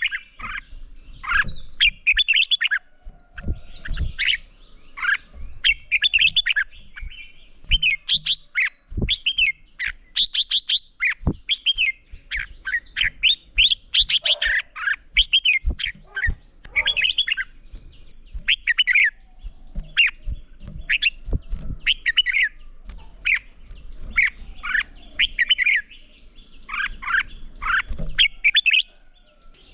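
Red-whiskered bulbuls singing in competition: a dense, continuous run of short, quick whistled phrases of rising and falling notes, with a few short low knocks in between.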